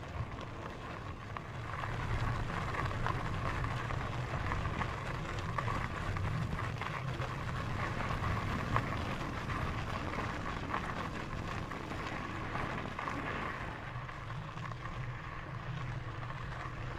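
Lectric XPEAK electric fat-tyre bike rolling along a dirt trail: steady tyre and riding noise with small scattered ticks, growing a little louder about two seconds in.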